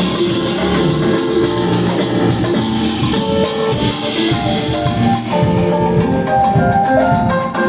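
Live rock band playing an instrumental passage: drum kit driving a steady beat under a melody of quick, short pitched notes.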